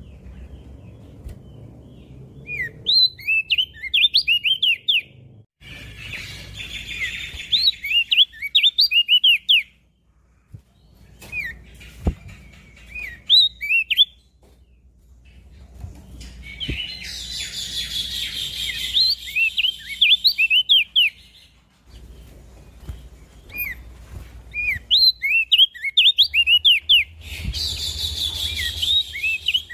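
Crested white-eye (opior jambul) singing: rapid runs of short, sharp, high chirping notes in several bouts with brief pauses between them. A hiss sits behind some bouts.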